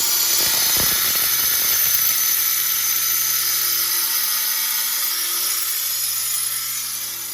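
Angle grinder cutting through the rusted stud of a front sway bar link, a steady high-pitched whine with a hiss of disc on steel; the stud has to be cut because its ball joint spins and won't come loose.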